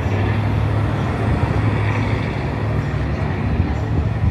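A car engine running steadily, a constant low hum.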